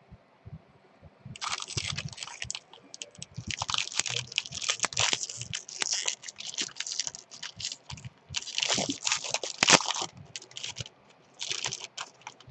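Trading-card pack wrapper being torn open and crumpled, crinkling and crackling in several bursts.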